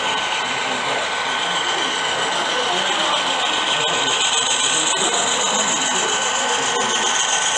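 HO scale model train running on the layout: a steady high whine from its small electric motor with a mechanical whirring of gears and wheels, and a few faint clicks.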